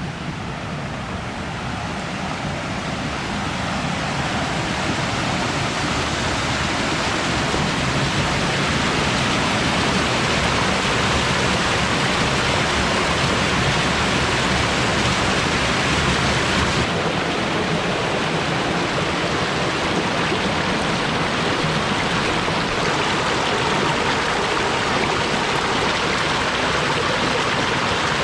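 Mountain valley stream rushing steadily over rocks, a loud even wash of water noise that swells over the first few seconds and then holds.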